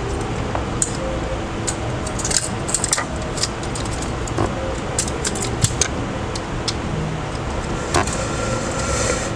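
Scattered small clicks and ticks of hand tools and smartphone parts being handled during reassembly of an LG Nexus 5X, over a steady background hum.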